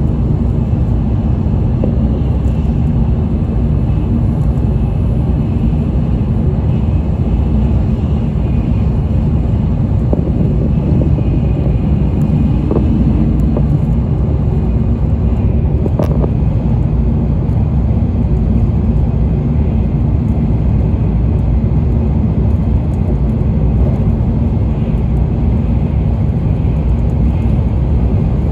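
Steady low rumble of an N700A Shinkansen running at speed, heard from inside the passenger cabin, with one short click about halfway through.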